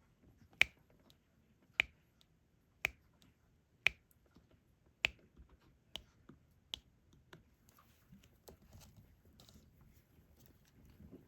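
Diamond painting pen tapping resin drills onto the adhesive canvas: sharp clicks about once a second, the first five loudest, then fainter scattered taps.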